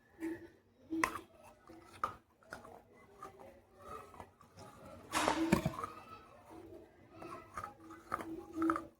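Baked clay pot pieces being bitten and chewed, crunching. There are sharp crisp bites near the start about a second apart, and a longer, louder crunch about five seconds in.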